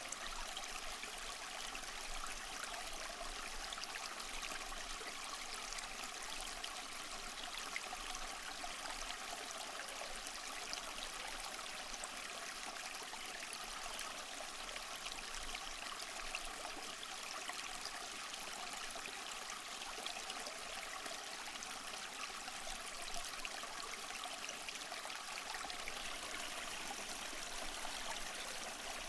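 Small waterfall splashing and trickling over mossy rocks, a steady, even rush of water with fine splashing and no bass.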